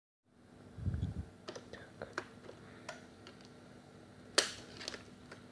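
Scattered light clicks and knocks of plastic parts of a Dibea vacuum cleaner being handled while it is switched off. There is a dull bump about a second in and a sharper click a little past four seconds.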